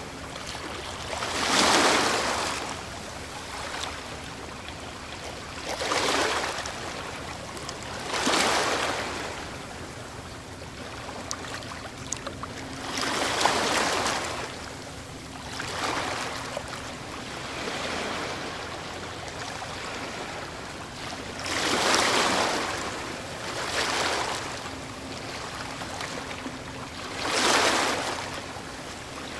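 Ocean waves breaking on a shore: surf swells up and washes back every few seconds, with seven louder breaks over a steady hiss of water.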